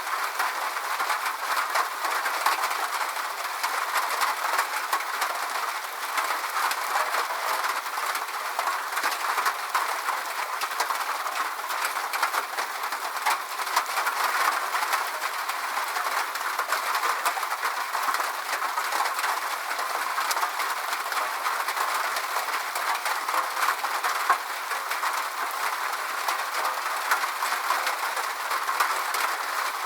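Steady rain, an even hiss with a dense patter of individual drops.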